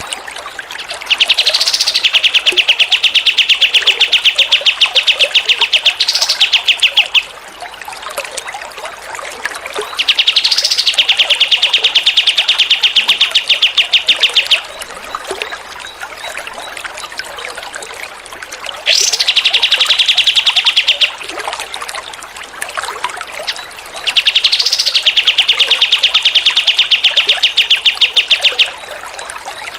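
Recorded songbird song used as training audio: four long, fast, even trills, each several seconds long and opening with a short rising note. Trickling water runs beneath and between them.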